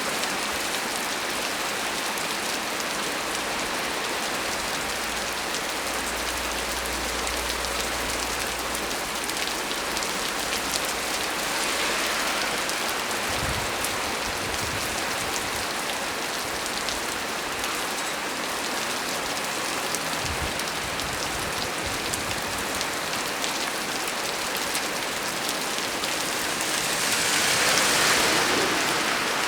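Heavy rain falling steadily on a small tree, an even hiss of drops that swells louder near the end.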